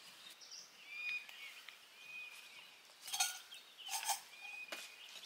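Birds giving a few short whistled calls over quiet outdoor background. About three seconds in, and again a second later, two short louder rustling clatters come from tea things being handled.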